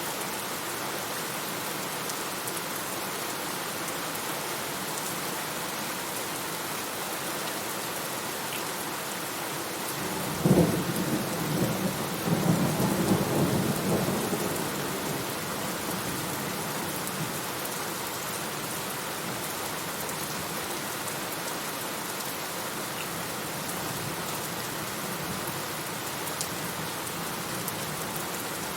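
Steady heavy rain falling, with a clap of thunder about ten seconds in that rumbles on for several seconds before fading back into the rain.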